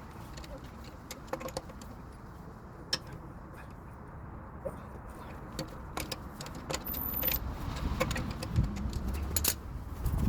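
Scattered light metallic clicks and clinks of small metal objects such as tools or keys being handled, over a low rumble of handling noise that grows louder in the last couple of seconds.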